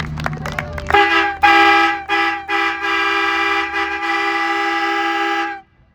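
A loud horn honking, starting about a second in: several blasts in quick succession, the later ones held longer, ending in a long blast that cuts off suddenly. Voices are heard just before it.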